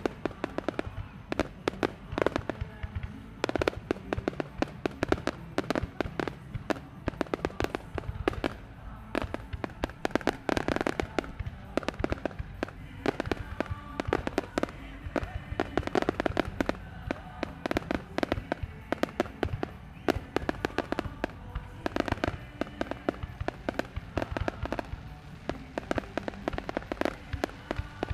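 Aerial fireworks bursting in rapid, irregular succession, a dense run of bangs, pops and crackles that never lets up, over a steady low rumble.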